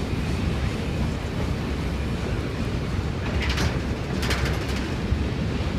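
Freight train's hopper wagons rolling slowly in reverse, a steady low rumble, with two short high scraping sounds from the wheels or couplings about three and four seconds in.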